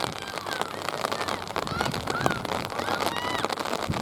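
Rain pattering steadily close to the microphone as a dense crackle of drops, with short distant shouts from players and spectators through it.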